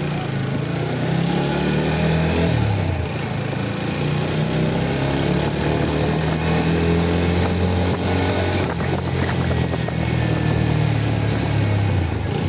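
Motorcycle engine running under way, rising in pitch as it accelerates, dropping about two and a half seconds in at a gear change, then holding a steady pitch. A steady rushing noise runs underneath.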